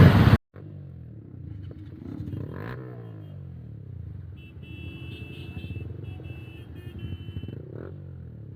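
Slow traffic in a jam: motorcycle and other vehicle engines running at low speed, with an engine note sweeping up and down about two and a half seconds in and again near the end. It opens with loud wind rush that cuts off abruptly within the first half second.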